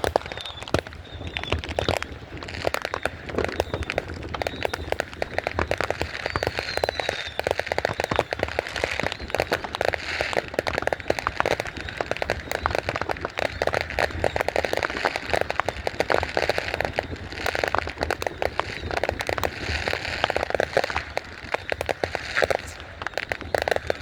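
Fireworks crackling and popping in a dense, unbroken stream of many small sharp reports.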